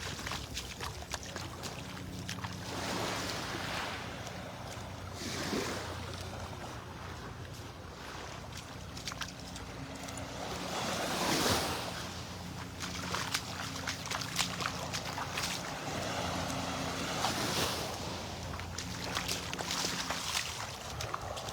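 Gulf surf washing onto the beach with wind buffeting the microphone in gusts, the loudest swell about halfway through. Under it a low, steady motor hum comes and goes several times.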